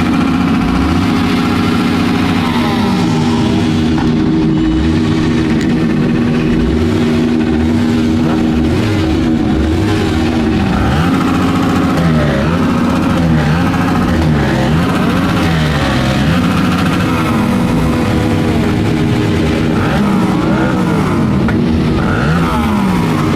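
Several motorcycle engines running together, their pitches rising and falling as they rev up and ease off, overlapping one another throughout.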